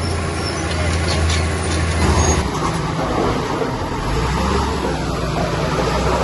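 Heavy diesel engine of earthmoving machinery running, with a low engine note that drops in pitch about two seconds in as the revs fall.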